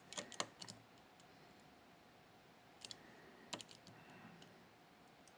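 Faint, sharp metallic clicks and taps of a pick working the pins of a Miwa JC (Kaba Star Orion) dimple lock: a cluster in the first second, then a few more about three seconds in.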